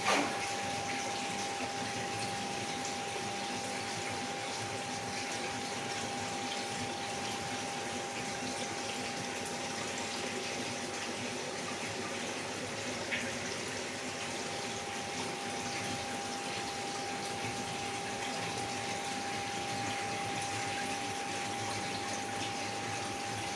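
Aquarium water running and splashing steadily from the tank's pump, with a constant steady tone under it.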